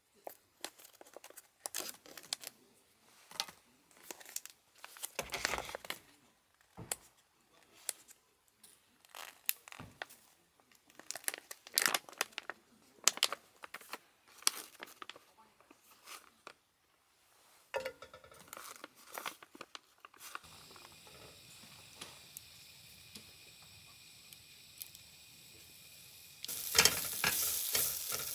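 Packaging crinkling and tearing in irregular bursts, then a steady faint hiss. About two seconds before the end, loud sizzling starts as food goes into a hot pan.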